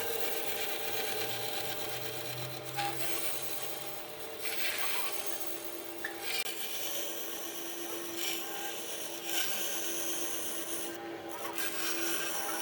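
Wood being worked with an abrasive or rasping tool: a continuous scraping rub over a steady hum.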